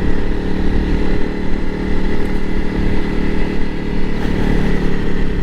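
Honda CRF300L Rally's fuel-injected single-cylinder engine running at a steady cruise, its pitch holding level.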